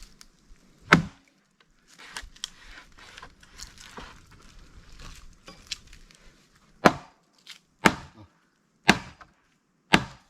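Axe blows on a log being split with wedges: one sharp strike about a second in, then four more about a second apart near the end.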